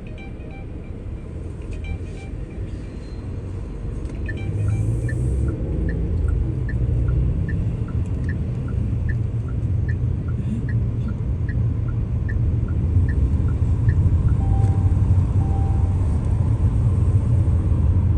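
Car cabin road and engine rumble, growing louder as the car picks up speed, with the turn signal ticking in an even two-note tick-tock for about ten seconds before it stops.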